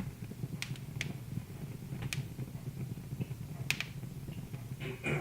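Wood fire crackling in a fireplace: a handful of sharp, separate pops, two of them close together near the middle, over a low steady rumble.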